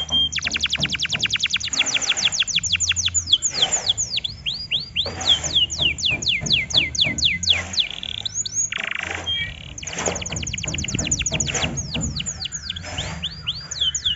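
Domestic canary singing a lure song: long rolling trills of rapid, repeated downward-sweeping notes, very fast at first, then slower and more spaced phrases, with a short harsher burst about nine seconds in.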